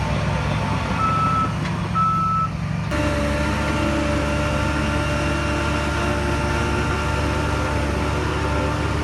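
Heavy diesel earthmoving machinery running steadily, with two short beeps of a reversing alarm about a second apart. About three seconds in, the sound changes abruptly to a steadier engine note.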